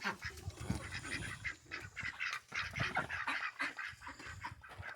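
Ducks quacking in a string of short, irregular calls.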